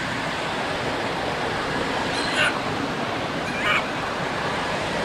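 A baby monkey gives two short, high squealing cries, each falling in pitch, about two seconds in and again about a second and a half later, over a steady outdoor hiss.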